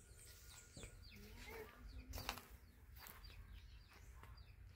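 Faint, scattered bird chirps, a few short calls here and there, with a couple of soft knocks at about one and two seconds in.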